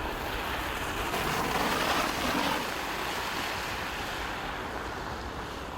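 Rushing outdoor noise in a blizzard, swelling to a peak about two seconds in and then easing to a steady hiss.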